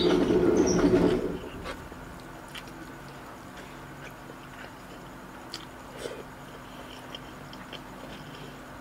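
Close-miked chewing of a mouthful of rice and ground pork, loudest and densest in the first second or so, then softer chewing with scattered short wet mouth clicks.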